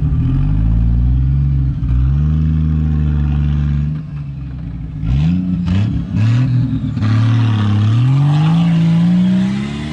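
Off-road 4x4 engine revving hard under load. The revs hold high, drop off about four seconds in, blip a few times with some sharp knocks, then rise steadily again near the end.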